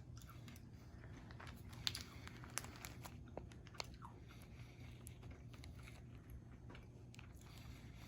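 A person chewing a jelly bean, faint wet mouth sounds with a few sharp clicks about two to four seconds in, over a low steady hum.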